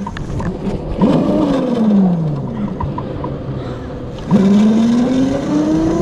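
Razor MX350 electric mini dirt bike's motor whining. About a second in, the whine falls in pitch as the bike slows; a little past four seconds it starts again suddenly and rises steadily in pitch as the bike speeds up.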